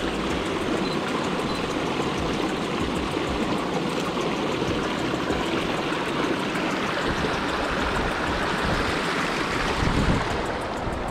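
Small river flowing: a steady rush of running water, with a brief louder swell near the end.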